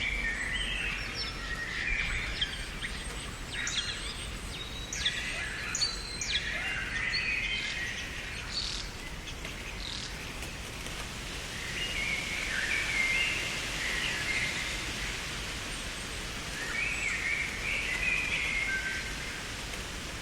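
Several songbirds chirping and twittering in short bursts over a steady background hiss of outdoor ambience.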